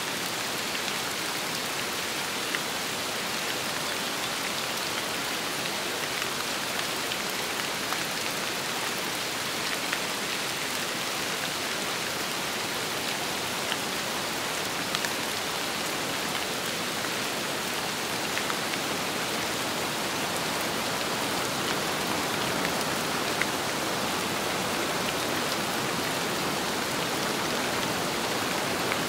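Steady rain with wind, a constant hiss with single drops ticking here and there, growing slightly louder toward the end.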